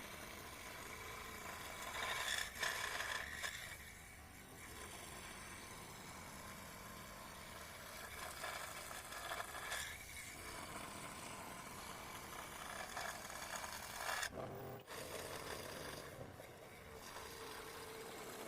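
Hand scraping and rubbing on wood in irregular strokes, loudest about two to three seconds in and again briefly near the middle and about fourteen seconds in.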